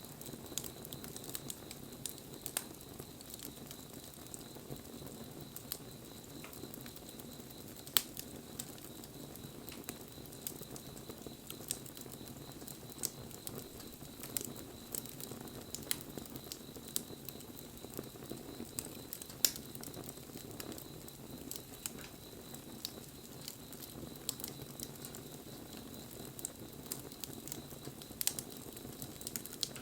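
Wood campfire crackling: irregular sharp pops and snaps over the low, steady rustle of the flames, with two louder pops about eight seconds in and just before twenty seconds.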